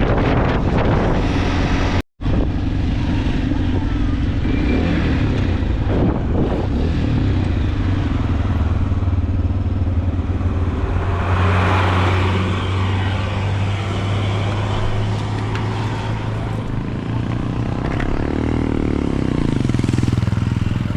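Motorcycle engine running steadily under way, with a continuous drone; the sound drops out for an instant about two seconds in.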